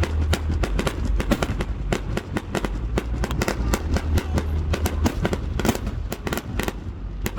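Aerial fireworks display going off in a dense barrage: many sharp bangs a second, overlapping, over a low rumble.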